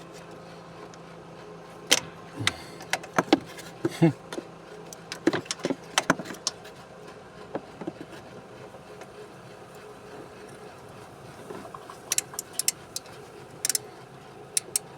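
Scattered clicks, taps and knocks of hand tools and parts being handled while working at the gas pedal bracket of a Scania truck, bunched in two spells, over a steady low hum.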